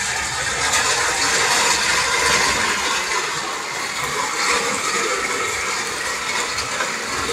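Rain falling steadily, an even rushing hiss of water.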